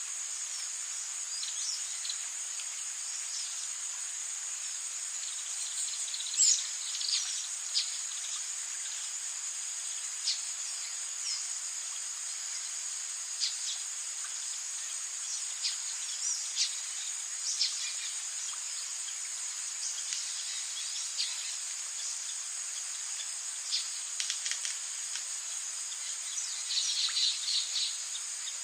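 Rainforest ambience: a steady high insect drone with scattered short chirps and calls over it, including a quick run of chirps near the end.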